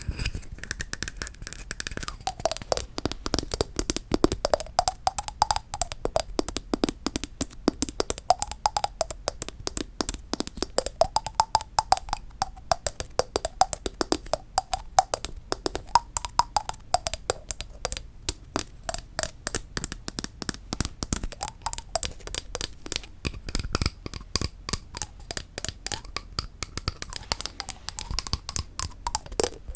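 Rapid tapping on wooden objects, many taps a second, with a faint ringing pitch in the wood that rises and falls as the tapping moves.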